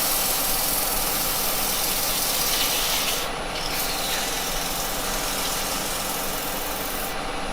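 Axminster wood lathe running while a carbide tool cuts the wood of a spinning cherry bowl, a steady scraping hiss over the motor's hum; the hiss eases slightly a little past three seconds in.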